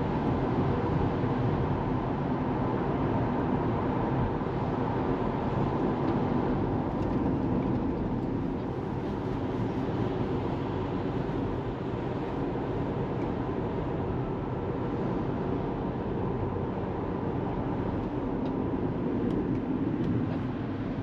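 Steady road and tyre noise of a Tesla Model 3 driving at an even speed.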